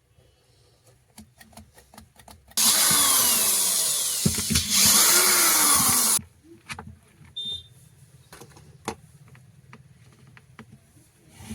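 Electric drill running in one burst of about three and a half seconds, starting abruptly a few seconds in. Its motor pitch sags, dips briefly with a couple of knocks midway, then picks up again before stopping abruptly. Small handling clicks come before and after.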